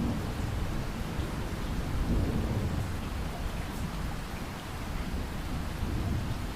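Heavy rain pouring steadily, with a low rolling rumble of thunder that swells about two seconds in.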